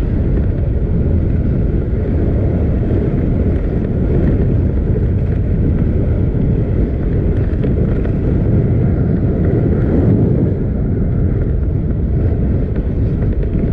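Loud, steady wind buffeting the microphone of a camera riding along on a moving mountain bike, a dense low rumble with no breaks.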